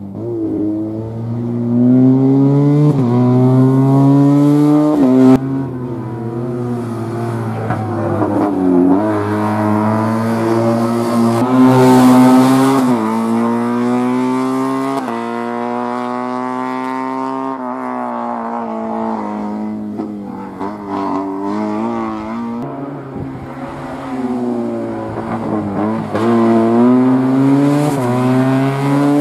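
Engine of a classic Fiat 500 racing car, revving hard under acceleration. Its pitch climbs and then drops sharply at each of several gear changes, with brief lifts off the throttle in between.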